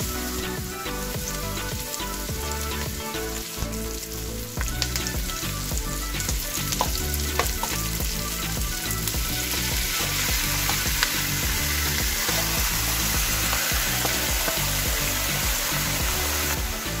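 Onions and garlic sizzling in hot oil in a nonstick pot while a wooden spatula stirs them, with a few sharp taps. About halfway through, raw pork pieces are tipped in and the sizzle turns louder and hissier as the meat hits the hot pan.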